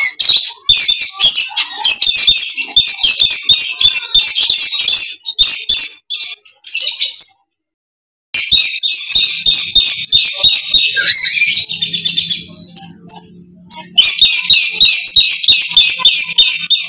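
Dusky lories screeching in a rapid, dense chatter of harsh calls, used as a lure call for catching lories. The calls cut off completely for about a second a little past the middle of the first half, thin out for a couple of seconds later on, then come back just as dense.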